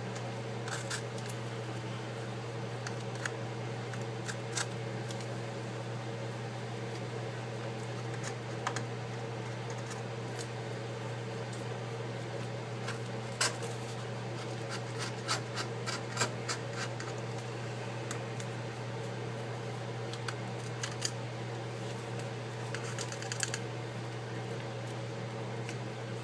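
Scattered small clicks and scratches of hand tools working on an opened iPad's metal housing and old adhesive, over a steady low electrical hum.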